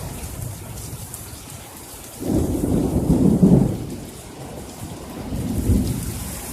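Thunder rumbling over steady rain. A deep rumble comes in suddenly about two seconds in, builds to a peak and fades, then swells again briefly near the end.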